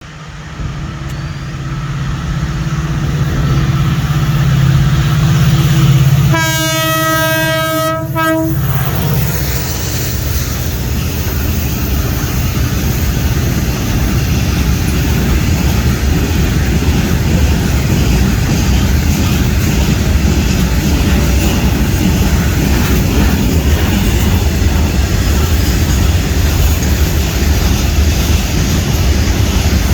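A train approaching with a rising engine hum, sounding one horn blast of about two seconds, then the carriages rumbling and clattering steadily past on the rails.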